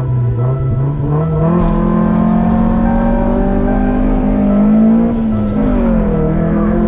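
Car engine revving up sharply about a second and a half in, then held at high revs with small rises and dips, as on a drift run.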